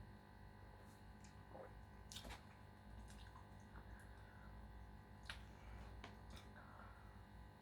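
Faint eating sounds: a few soft wet clicks and smacks of the mouth while chewing, spread out over a low steady hum.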